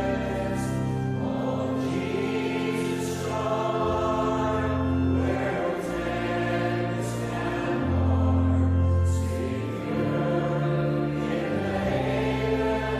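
Choir singing slow music over long held chords, the low notes changing every couple of seconds.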